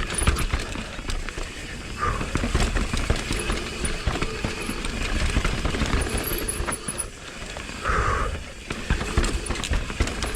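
Mountain bike descending a rough, rocky downhill trail: rapid rattling and knocking from the frame and chain as the tyres pound over rocks and roots, with a steady low rumble underneath.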